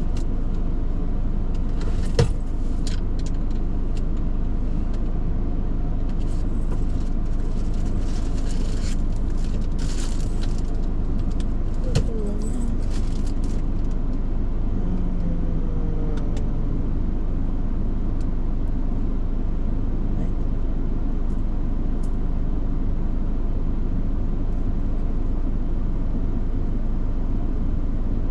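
Steady low rumble of a car running, heard from inside the cabin, with two sharp clicks, one about two seconds in and one about twelve seconds in, and some rustling between them.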